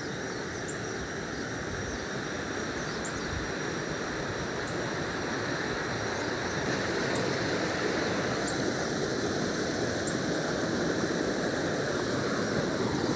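Jungle river water rushing steadily, slowly growing a little louder.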